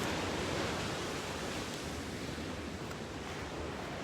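Ocean surf washing steadily along the shore, mixed with wind, as an even hiss over a restless low rumble.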